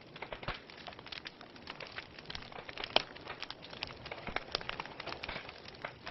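Wood fire burning in a fireplace, crackling with irregular pops and snaps over a soft hiss, one sharper snap about three seconds in.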